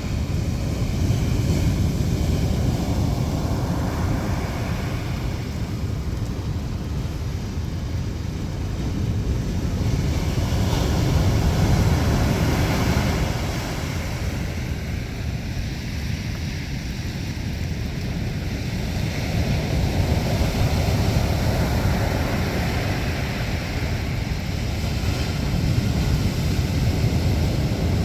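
Rough winter sea surf breaking in heavy swells, the roar rising and falling every several seconds, with wind buffeting the microphone.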